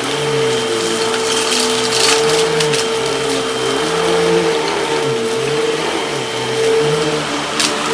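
Hoover vacuum cleaner running steadily with a high motor whine during a suction test on spread sand, with a few short crackles about two seconds in and near the end.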